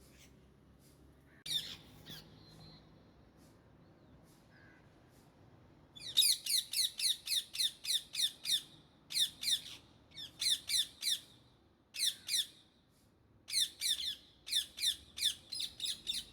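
Indian ringneck parakeets calling. There is a single harsh squawk about a second and a half in. From about six seconds there is a fast run of repeated sharp calls, about four or five a second, in bursts with short breaks.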